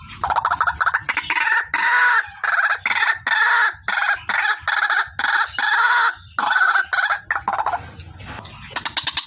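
White-breasted waterhen (ruak-ruak), given as a female's lure call, repeating its harsh, croaking calls in a quick series of short phrases, easing off briefly near the end.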